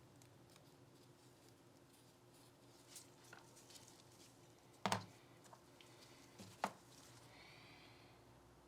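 Quiet handling of Glock 19 Gen 5 pistol parts and tools: scattered faint ticks and taps, two sharper clicks about five and six and a half seconds in, then a brief faint high squeak near the end.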